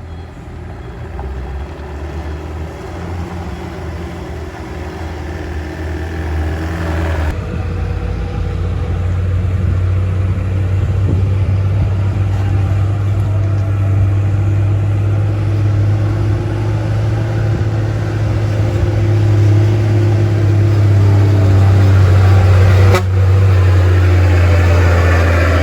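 A heavy vehicle's diesel engine labouring up a steep climb, a deep steady engine note growing louder as it comes closer.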